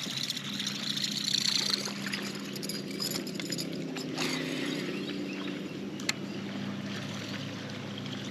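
Steady low hum of a fishing boat's motor, with water trickling and splashing around the hull, the splashing strongest in the first couple of seconds. A single sharp click about six seconds in.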